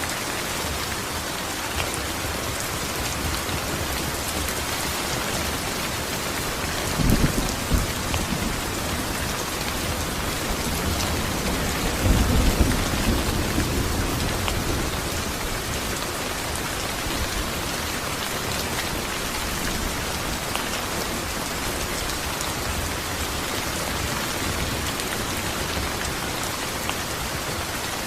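Steady rain falling, an even hiss throughout, with two low rumbles of thunder: a short one about a quarter of the way in and a longer, louder one near the middle.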